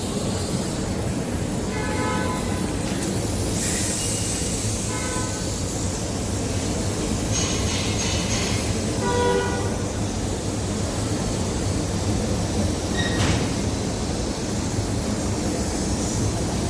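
Steady loud mechanical rumble with a low hum, broken by short high-pitched tones a few times.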